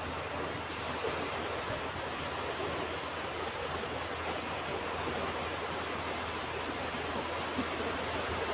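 Ocean surf washing on a beach: a steady wash of wave noise with little rise and fall.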